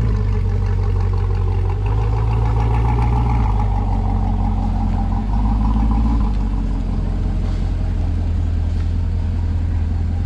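Car engine running steadily with a deep low rumble, its pitch shifting a little a couple of times.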